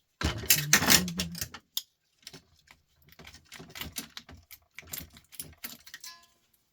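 Clattering and clicking of small metal and plastic parts being handled and worked loose while taking apart a record player by hand. A dense clatter fills the first second and a half, then scattered clicks and knocks follow.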